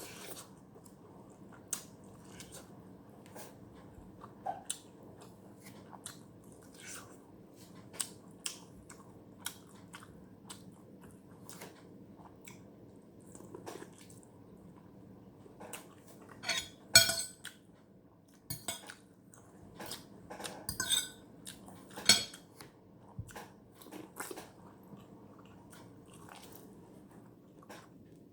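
Close-up eating sounds of a person eating Indomie instant noodles: chewing with scattered sharp clicks and clinks of utensils on the bowl, denser and louder about two-thirds of the way through.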